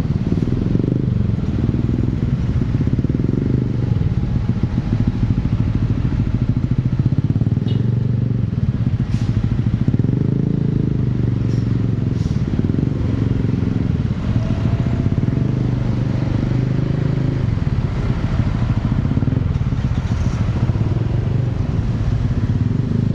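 Motorcycle engine running steadily, a loud low-pitched drone with rapid pulsing.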